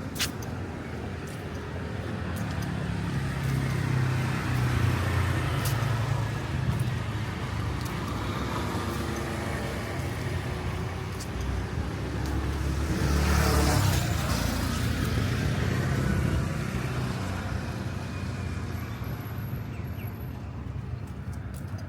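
Street traffic: vehicle engines running and passing steadily, with one vehicle passing close about halfway through.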